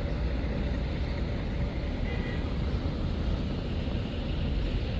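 Steady low rumble of a passenger coach's engine and running gear heard from inside the cabin.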